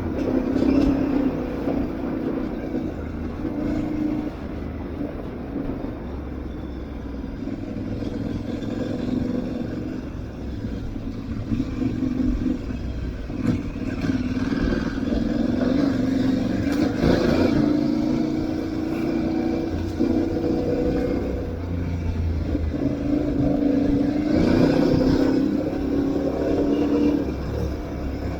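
Aprilia Tuareg 660's parallel-twin engine running as the motorcycle is ridden off road. The engine note rises and falls with the throttle several times over a constant noise bed.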